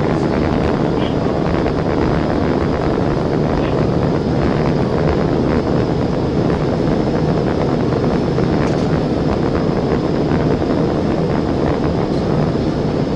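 Steady wind and road noise of a police car driving at speed, heard through its dashcam, with no siren.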